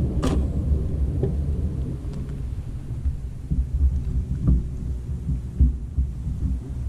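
Wind buffeting the microphone: a steady, gusting low rumble, with a few faint knocks.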